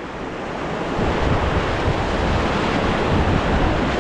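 Rushing whitewater of a river rapid around a raft, with wind buffeting the microphone; the noise swells about a second in and stays loud.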